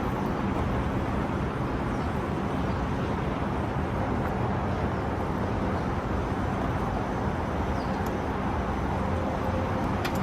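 Steady background noise with a low, even hum that does not change, and a couple of faint clicks near the end.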